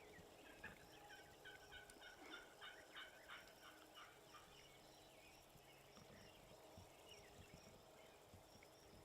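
Wild turkey gobbling faintly: a quick rattling series of notes in the first few seconds.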